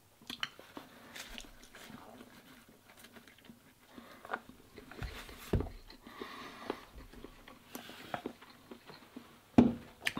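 Close-up mouth sounds of a person chewing a big mouthful of instant ramen noodles, with light clicks of wooden chopsticks against the plastic noodle container. A single louder knock comes near the end.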